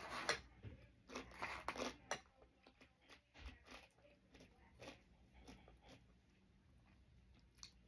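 Close-miked crunching and chewing of tortilla chips, loudest in the first two seconds, then fading to fainter chewing and scattered light clicks.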